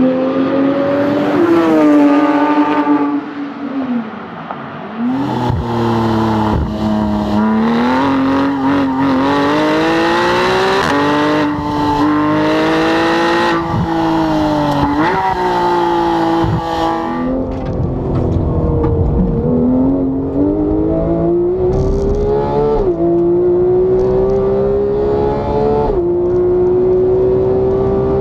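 Porsche 991 GT3's naturally aspirated flat-six with a Cup exhaust under hard acceleration, its pitch climbing steadily and then dropping sharply, over and over, as it pulls through the gears and lifts for corners. It is first heard from behind as the car pulls away and fades, then close up from on board the car.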